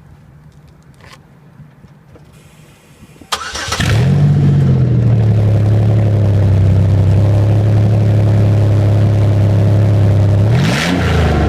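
2002 Pontiac Grand Am GT's 3.4-litre 3400 V6, running with its resonator and muffler cut off, cranks and starts about three seconds in. The revs flare briefly, then it settles into a loud, steady idle. It is revved up near the end.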